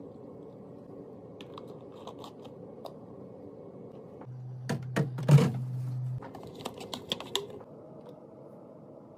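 Light clicks and taps of containers and items being handled and set down, with a short cluster of louder knocks about halfway through. A low steady hum runs underneath.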